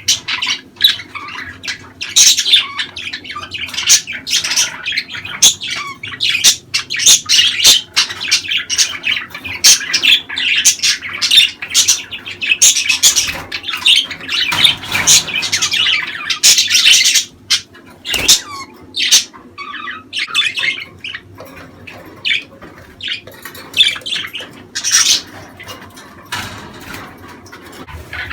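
Budgerigars chattering and warbling: quick chirps and squawks tumbling over each other, busiest through the middle, with a brief lull about two-thirds of the way in before the chatter picks up again.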